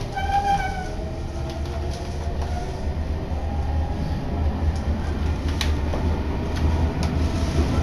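Sotetsu Line electric train running, heard from inside the carriage: a steady low rumble, with a brief whine of several tones near the start and a few sharp clicks from the wheels over the track later on.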